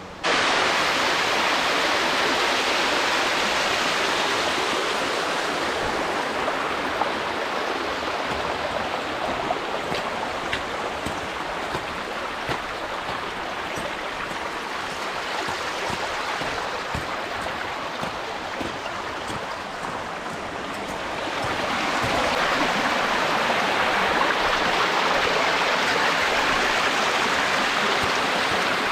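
Rushing water of a mountain creek, a steady hiss that eases off somewhat in the middle and grows louder again about two-thirds of the way through.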